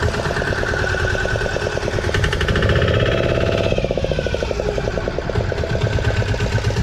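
Fishing boat's engine running with a rapid, even knocking beat.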